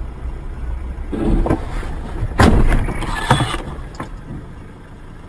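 Steady road and engine rumble inside a moving car. About two and a half seconds in comes a loud bang of a car collision, followed by a second of noisy clatter and a couple of sharper knocks.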